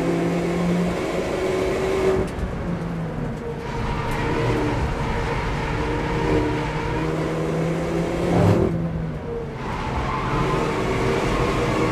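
Opel Corsa OPC's turbocharged four-cylinder engine with a full exhaust, heard from inside the car at speed on track. It eases off about two seconds in, gives a brief loud spike followed by a dip around eight and a half seconds in, and pulls harder again near the end.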